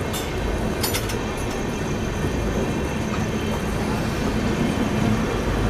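Passenger train coach in motion: a steady rumble of wheels on rails, with a couple of sharp clicks about a second in.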